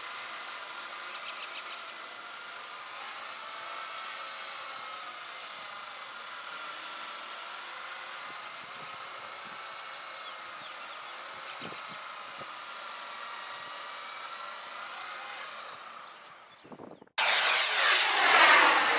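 Blade 120 SR micro RC helicopter's small electric motors whining steadily in flight, the pitch drifting slightly up and down. The sound fades away near the end and is cut off by a sudden loud rushing noise.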